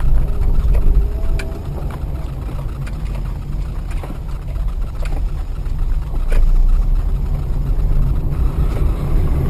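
Steady low rumble of a car driving, as picked up by a dashcam inside the vehicle, with a few faint ticks.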